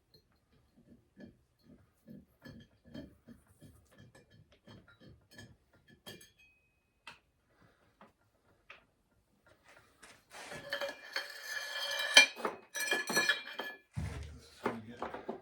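Metal parts and tools being handled: soft taps at first, then about ten seconds in a loud clinking clatter with ringing metallic tones, ending in a dull thump.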